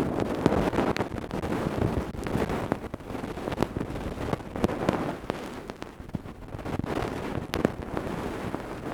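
ASMR ear-cleaning tools scraping and rubbing right against a microphone, making a dense crackling rustle broken by scattered sharp clicks.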